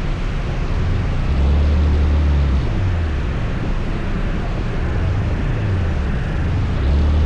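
Scooter riding noise: heavy low wind rumble buffeting the microphone over a steady hiss, with the rumble swelling about a second and a half in and again near the end.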